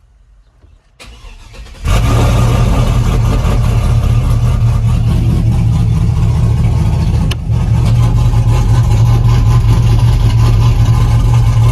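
Pickup truck engine started after sitting for a week: brief starter cranking about a second in, then it catches and runs steady and pretty loud through its turned-down dump exhaust, which has no proper muffled system.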